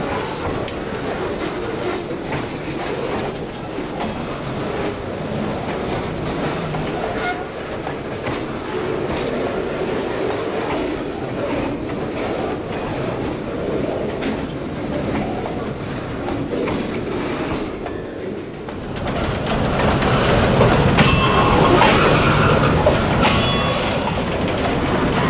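Freight train of boxcars rolling slowly past on poorly maintained track, its wheels clattering steadily over the rail. About three-quarters of the way through the sound grows louder and brighter.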